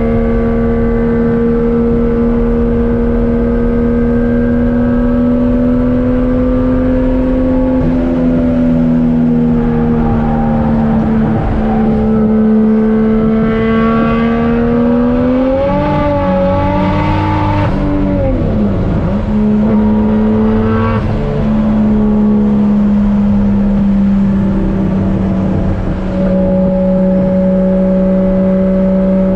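Single-turbo Toyota 1JZ-GTE VVTi inline-six in a Nissan 240SX, running steadily under way with its pitch slowly sagging. About halfway through, the revs climb briefly and then drop sharply, with a couple of short breaks like gear changes, before the engine settles at a steady, slightly lower pitch.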